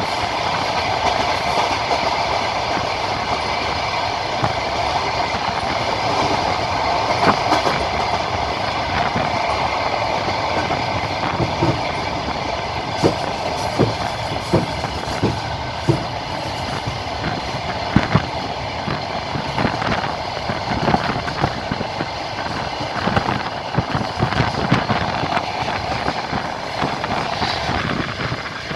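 Passenger train running along the track: a steady rolling rumble with the wheels clacking over rail joints, the knocks coming thicker in the second half.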